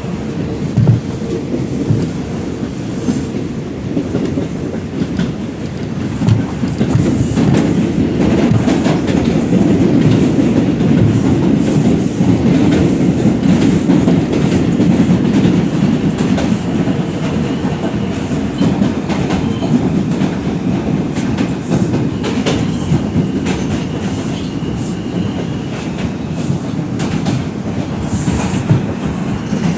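R142 subway car running at speed, heard from inside: a steady low rumble of wheels on rail with irregular clicks and clacks over the track, growing louder about six seconds in.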